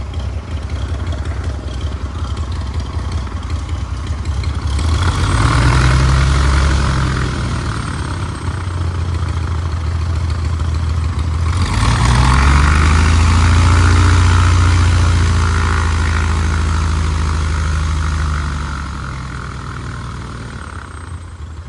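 1948 Cessna 170's Continental O-300 six-cylinder aircraft engine running at idle, throttled up twice: briefly about five seconds in, then again about twelve seconds in and held for several seconds before dropping back to idle.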